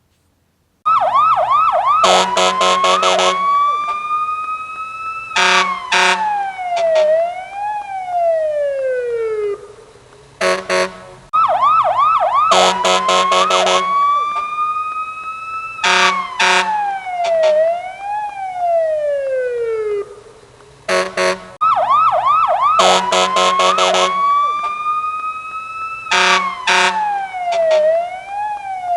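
Police car siren cycling through its tones: a quick warble, a long rising wail, a rapid run of pulses, then falling and zig-zagging sweeps. It starts about a second in and the cycle repeats about every ten seconds, nearly three times over.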